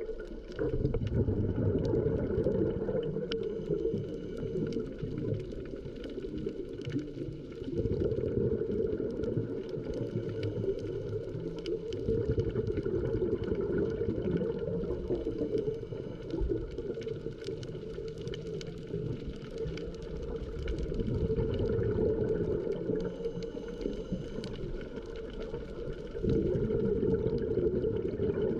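Underwater sound picked up through a dive camera's housing: a scuba diver's regulator breathing and exhaust bubbles, a low rushing gurgle that swells and eases in slow cycles several seconds apart, with faint steady tones above it.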